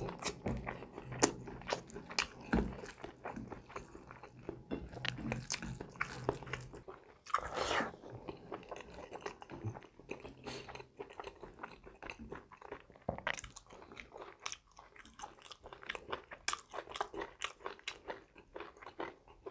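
Chewing and biting of rice and curry eaten by hand, a run of short wet clicks and crunches from the mouth, with a brief louder hiss-like rush of noise about eight seconds in.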